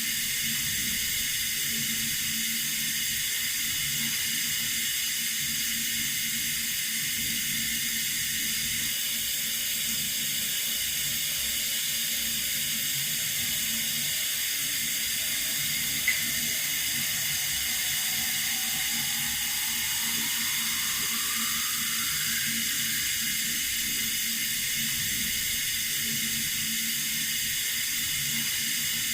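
Water running steadily from a tap, an even hiss. A single sharp click sounds about halfway through.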